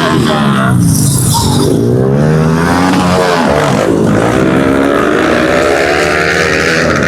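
Several pit bike engines revving hard, their pitch rising and falling over and over with throttle and gear changes.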